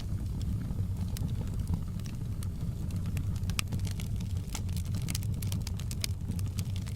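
Crackling wood fire, its sharp pops and snaps scattered irregularly and coming more often in the second half, over a steady low rumble.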